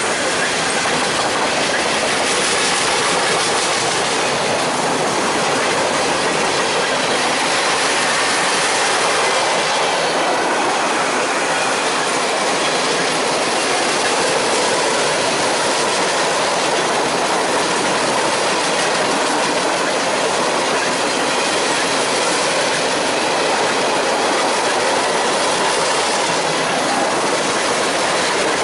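Railroad cars rolling past on the track, their wheels giving a steady, loud noise for the whole stretch.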